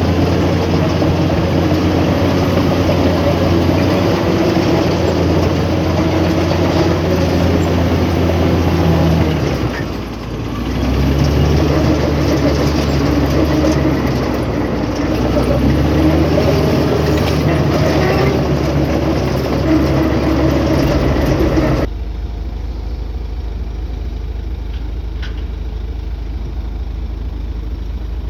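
Heavy diesel engine of earthmoving machinery running hard. Its note dips briefly about a third of the way through and then picks up again. Near the end the sound drops suddenly to a quieter, lower steady hum.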